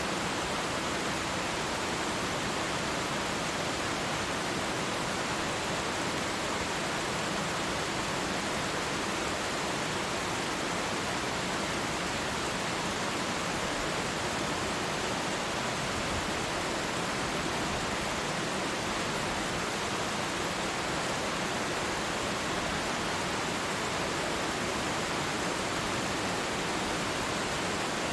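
Twin waterfall: a steady, even rush of falling water, unchanging throughout.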